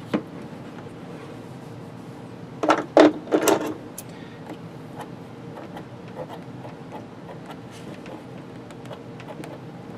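Hand tools and wiring being handled: a click at the very start, then a quick cluster of about four sharp clicks and knocks about three seconds in, with a few light ticks later over a faint steady hum.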